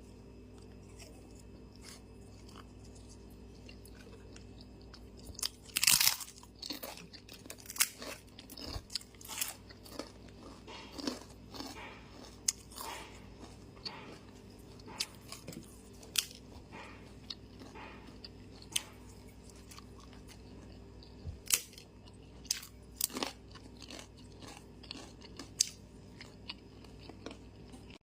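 Close-mic eating sounds: chewing with sharp crunchy bites and wet mouth clicks, coming irregularly from about five seconds in and loudest around six seconds. A faint steady hum runs underneath.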